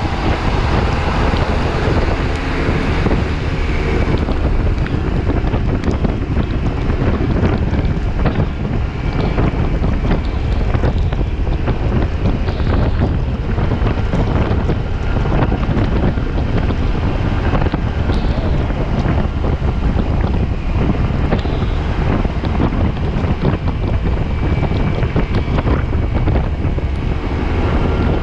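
Steady wind rush and buffeting on the microphone while riding a Yamaha T-Max 530 scooter through heavy rain, with wet-road and spray noise underneath.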